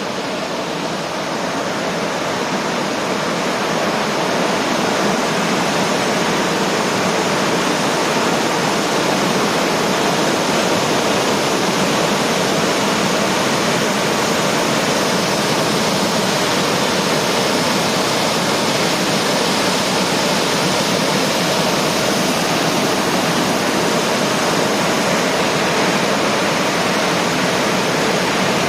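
Waterfall about 10 m high and 7 m wide pouring steadily, a constant rush of falling water. It grows a little louder over the first few seconds.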